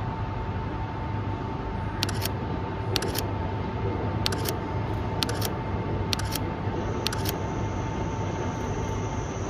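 Single-lens reflex camera shutters firing one frame at a time, each a quick double click, about once a second. Under them is a steady background noise with a low hum.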